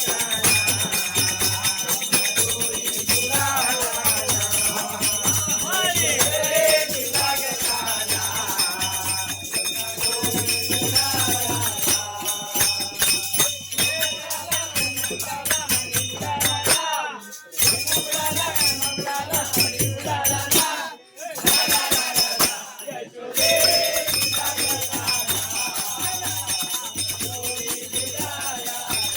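Devotional bhajan music: voices singing over jingling hand percussion and a steady low beat, dropping out briefly twice past the middle.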